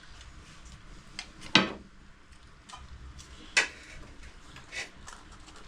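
A few sharp knocks, two of them loud: one about a second and a half in and another about two seconds later, with fainter ones between.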